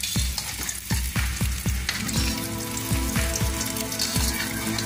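Egg omelette sizzling in hot oil in a frying pan, with a metal spatula turning and folding it. Under it runs background music with a steady beat of about four thumps a second, joined by held tones about two seconds in.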